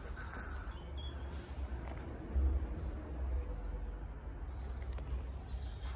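A steady low rumble, with faint high bird chirps now and then; a short run of them comes about two and a half seconds in.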